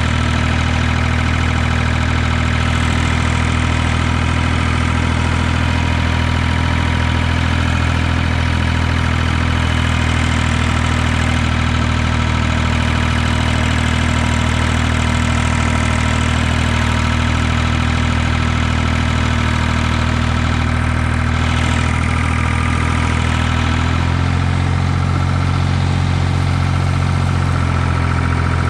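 Ford 2000 tractor's diesel engine running steadily, with a slight change in its note late on.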